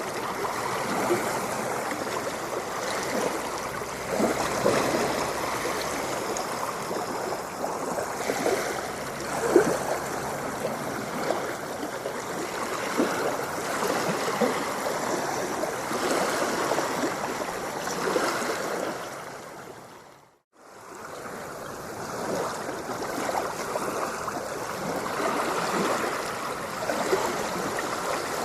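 Steady rush of moving water, full of small splashes and gurgles. About two-thirds of the way through it fades out to silence for a moment and fades back in.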